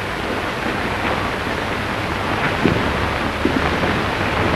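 Steady hiss and low hum of an old optical film soundtrack, with a few faint soft thuds from about two and a half seconds in.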